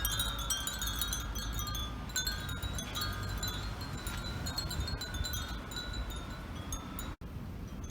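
Many Japanese furin wind chimes tinkling in the breeze: a dense jangle of short, high ringing tones that thins out over the last few seconds, over a steady low background rumble. The sound cuts out for an instant near the end.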